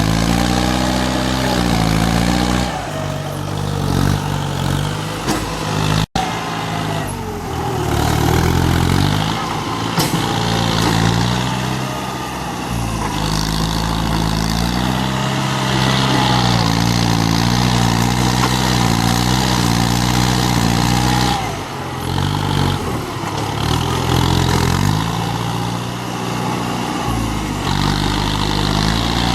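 Kubota tractor's diesel engine running, its pitch repeatedly sagging and recovering, with a sudden brief cutout about six seconds in.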